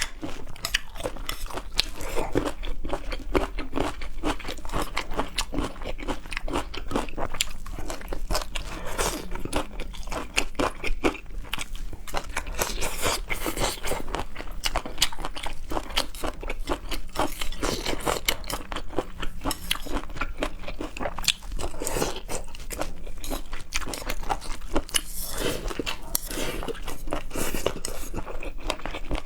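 Close-miked eating of seafood: steady crunching, biting and chewing, a dense run of wet clicks throughout.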